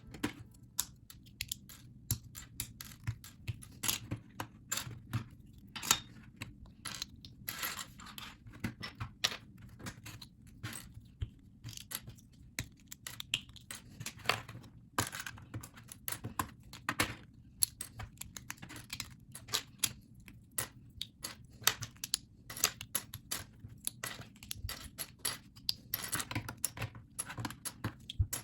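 Plastic LEGO bricks being pulled apart and handled, a run of irregular sharp clicks and light clatter.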